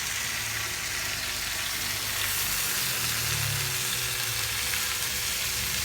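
Chicken frying in hot oil in a pan, sizzling steadily.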